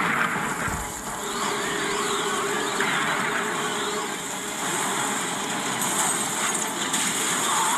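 Cartoon tornado wind sound effect: a steady rushing noise with whistling gusts that rise and fall.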